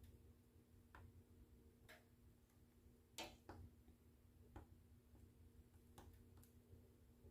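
Wood fire in a fireplace crackling softly: scattered single pops and snaps at irregular intervals, the loudest about three seconds in, over a faint steady hum.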